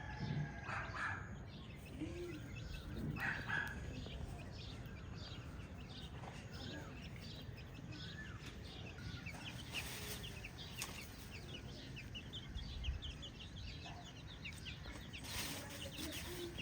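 Free-range chickens clucking and calling, with many short, high chirps scattered throughout and a steady low rumble underneath.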